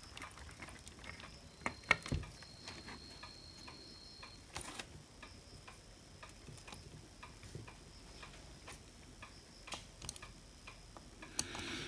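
Faint, irregular clicks and light taps of small plastic and metal parts being handled during bench repair work, with a few sharper knocks around two seconds in and again near five seconds.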